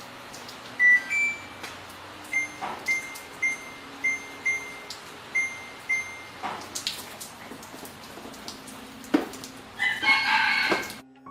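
A row of short, high electronic beeps, about two a second with a pause in the middle, among scattered knocks and clicks; near the end, a rooster crows briefly.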